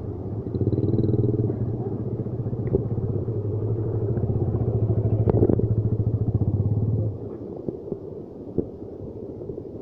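Trail motorcycle engine running at low revs close by, growing louder until it drops away about seven seconds in.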